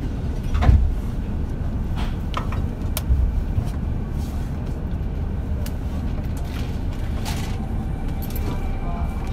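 JR Shikoku 8000 series electric express train standing at a platform: a steady low rumble with scattered clicks and knocks, the loudest about a second in.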